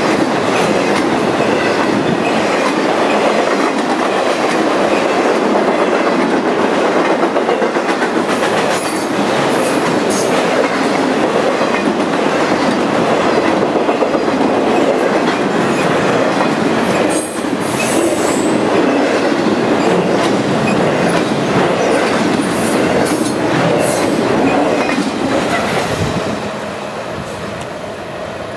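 Long intermodal freight train of trailers on flatcars rolling past close by, its wheels running steadily over the rails. The last car goes by near the end and the sound falls away.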